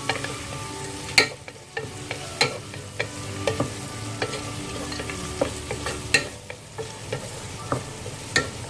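Sliced onions, green chilies and whole spices frying in hot oil in a pot with a steady sizzle, while a utensil stirs them, scraping and knocking against the pot at irregular moments.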